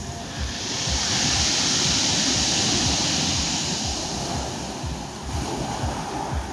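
Sea surf: a wave breaks and washes up the shore in a long hiss that swells about half a second in and dies away by about five seconds. Wind buffets the microphone throughout.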